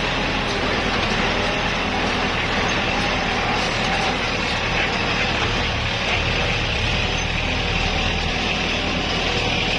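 Kubota L5018SP tractor's diesel engine running steadily, with the mechanical clatter of the straw baler it is driving.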